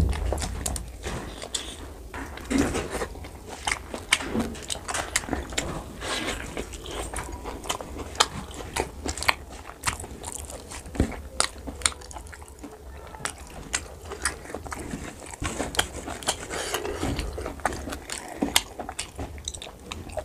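Close-up wet chewing and lip-smacking of a person eating pork curry and rice by hand, with many short, sharp mouth clicks at an irregular pace.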